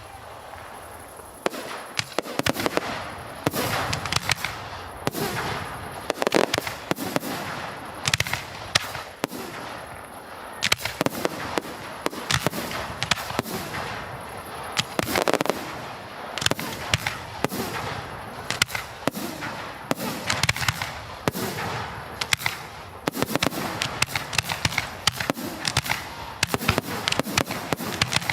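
Firecrackers going off: a long, irregular series of sharp bangs and crackles, some in quick rapid-fire runs and some as single louder reports.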